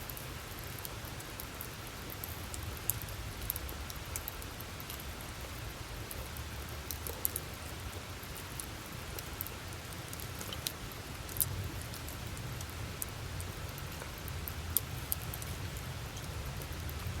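Wood campfire burning: a steady low rumble of flame with scattered sharp crackles and pops from the burning wood, a few louder pops about 11 and 15 seconds in.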